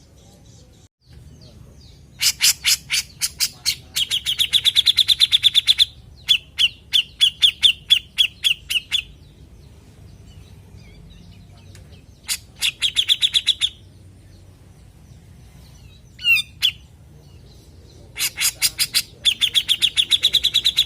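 Cucak jenggot (grey-cheeked bulbul) calling: bouts of sharp, spaced notes that speed up into a fast, high trill. There are four bouts with pauses between them, and a single short gliding call in the last pause.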